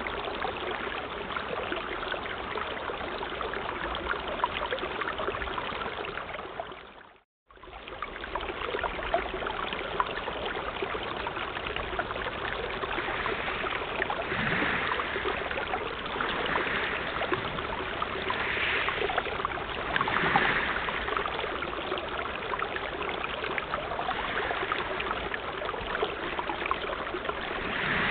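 Sea waves washing in a continuous rush of water. It cuts out for a moment about seven seconds in. In the second half, louder swells come every two seconds or so.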